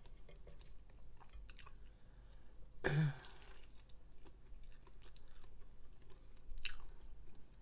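Close-miked chewing and small wet mouth clicks of a person eating pieces of fried fish picked up with her fingers. A louder, fuller mouth sound comes about three seconds in.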